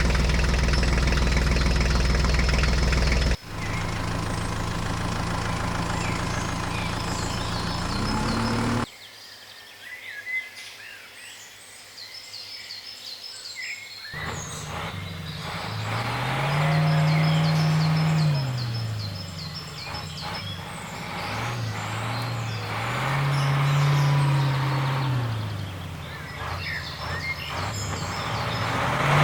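Small motors of toy construction vehicles running, cut between clips. Later their pitch rises and falls several times as they speed up and slow down. Birds chirp in the background, plainest in a quieter stretch in the middle.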